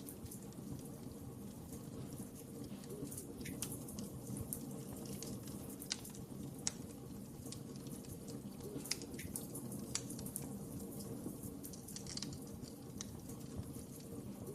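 Wood fire crackling in a fireplace: irregular sharp snaps and pops over a steady low rush of flame, with a few louder pops around the middle.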